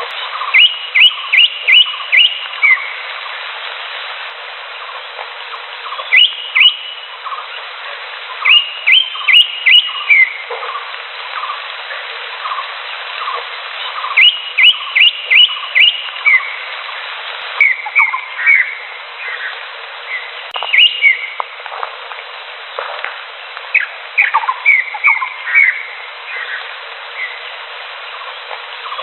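Cucak hijau (green leafbird) singing: quick runs of three to five sharp whistled notes, repeated every few seconds, with fainter lower notes between, over a steady background hiss.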